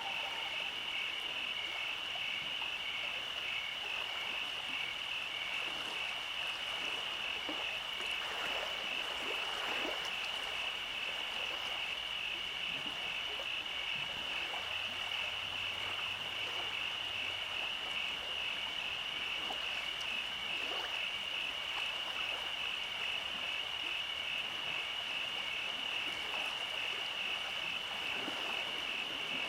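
Steady summer-night chorus of calling animals: a continuous high-pitched, rapidly pulsing trill that never breaks, over a soft even hiss with faint scattered ticks.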